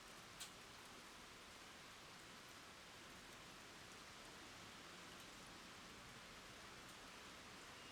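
Faint, steady rain falling on wet ground and puddles, an even patter with one sharper, louder drop about half a second in.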